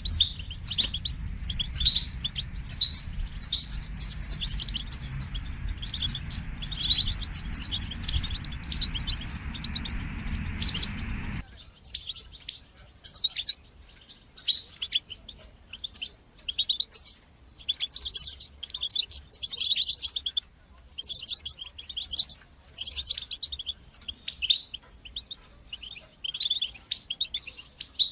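European goldfinch singing: rapid, high twittering chirps and trills in quick bursts. A low steady hum sits under the song for the first eleven seconds or so, then cuts off suddenly.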